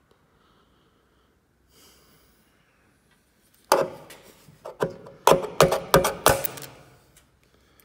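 A run of hard knocks and cracks, starting a little past halfway: a tool striking and breaking into a body panel caked with thick, concrete-like filler.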